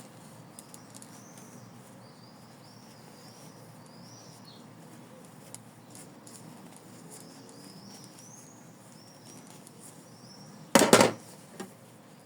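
Faint, soft rustling of fibre stuffing being pushed by hand into a felt cloud toy, with light high squeaks through much of it. Near the end comes one sudden loud burst of handling noise, lasting under half a second.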